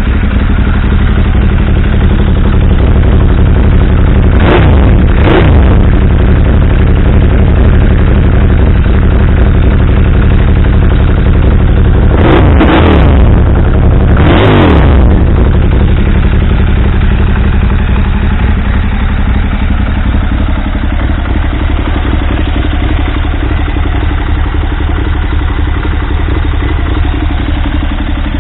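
KTM 990 Superduke's V-twin idling through a decatted Fresco Penta aftermarket exhaust, blipped four times in two quick pairs, each rev rising and falling back. It then settles to a steady idle.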